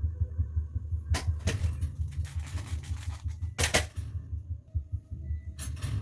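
A fast, steady low bass pulse, like a suspense score on a TV drama, with a few sharp clicks or knocks about a second in, near four seconds and near the end.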